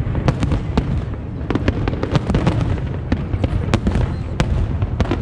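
Aerial fireworks display: a continuous low rumble of overlapping shell bursts, with many sharp cracks and pops scattered irregularly through it.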